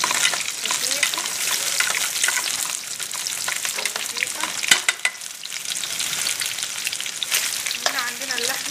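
Half-boiled okra sizzling and crackling as it is sautéed and stirred in a pot, with a steady frying hiss full of small pops and one sharper knock a little before the middle.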